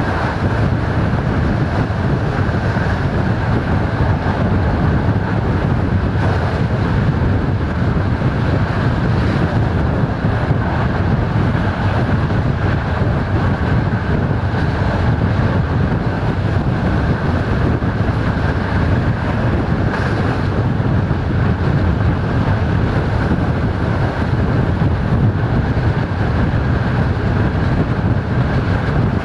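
Steady rumble and rolling noise of a moving passenger train heard from on board, with wind buffeting the microphone.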